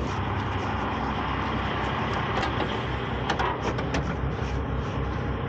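Tow truck's engine running steadily, with a few sharp metal clinks about three seconds in as gear is shifted in a side tool box.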